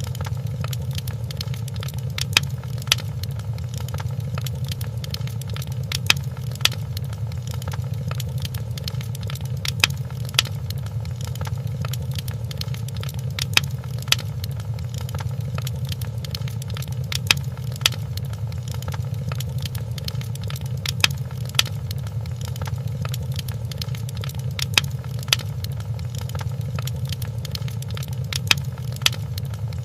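Wood fire crackling in a fireplace: sharp, irregular pops every second or so over a steady low rumble of the flames.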